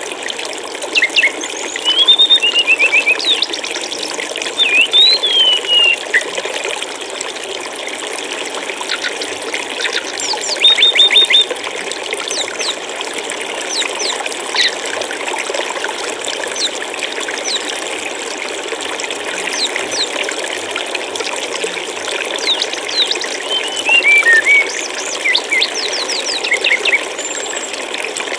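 Flowing water running steadily, with a small songbird's high chirps and quick falling trills on top in short clusters, the loudest about two seconds in, around eleven seconds and around twenty-four seconds.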